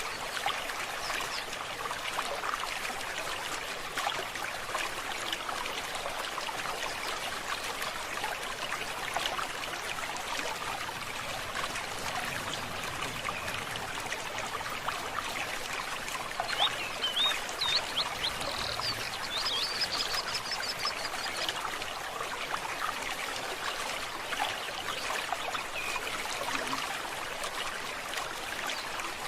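Forest stream babbling and trickling steadily, with a bird calling in short high chirps and then a quick trill about two-thirds of the way through.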